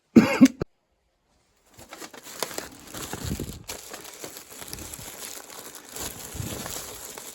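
Plastic packaging crinkling and rustling as the parts bag from a new furnace draft inducer kit is handled and opened. It runs on with many small crackles from about two seconds in, after a brief loud sound at the very start.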